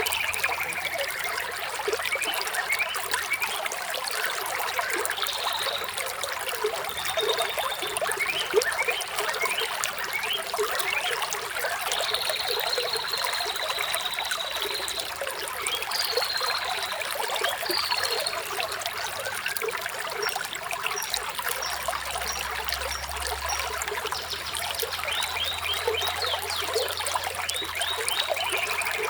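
Flowing water trickling and splashing steadily, with birds calling high above it: a few short whistled notes and one long held whistle in the middle.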